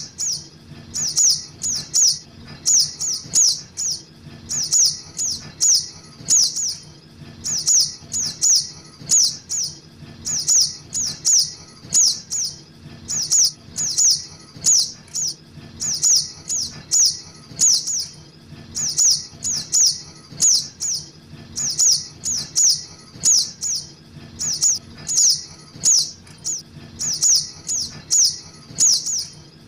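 Juvenile little spiderhunters (sogok ontong) calling without a break: short, high chips that fall in pitch, in quick runs of two to four, played as a looped lure recording for bird trapping. A faint low hum lies underneath.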